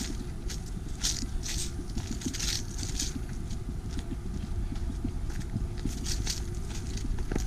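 Footsteps crunching on a dry trail: irregular crisp scuffs, several close together in the first few seconds and again a little after the middle, over a low steady rumble.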